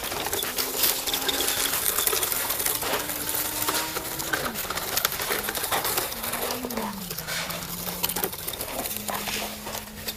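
Toy dirt trucks and excavator working in soil: a small motor hums and changes pitch in steps and slow glides, over a dense clatter of clicking and rattling grit.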